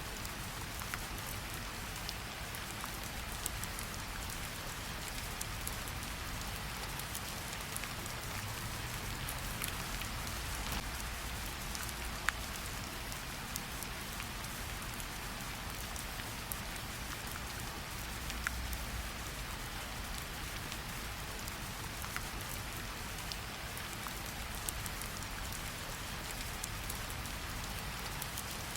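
Steady rain falling, with many scattered sharp ticks of single drops landing, over a faint low rumble.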